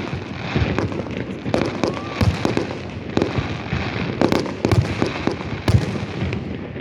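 Aerial fireworks going off: an irregular string of sharp bangs and deeper booms, several in some seconds, each trailing off in echo over a continuous background rumble.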